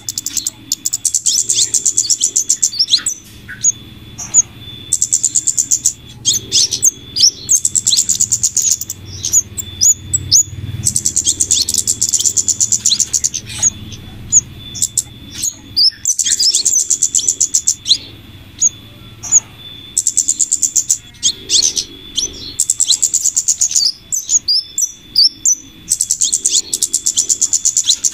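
Bird-lure track of flowerpecker calls combined with female scarlet minivet calls: runs of very high, rapid ticking trills lasting a second or two, broken by sharp single chirps, repeating over and over as a loop.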